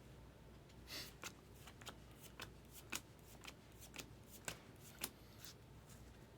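Topps Heritage baseball cards being flicked through one by one: a series of faint, crisp card snaps, roughly two a second, with a short rustle about a second in.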